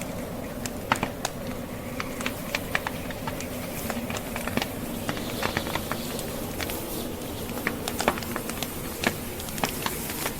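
Log fire crackling, with irregular sharp pops and snaps, over the steady rushing wind of a snowstorm.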